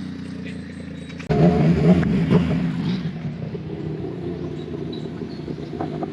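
Motorcycle engine running under way at a steady note, then a sudden louder stretch of engine revving about a second in.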